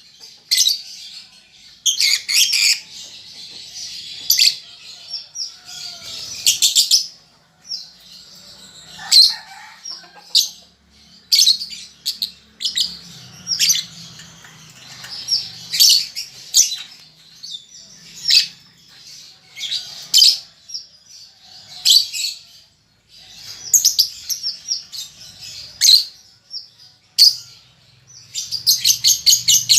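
Young lovebird chirping in short, sharp, high-pitched calls every second or so, the chatter of a juvenile still learning its song. Near the end it breaks into a fast run of rapid ticking chirps.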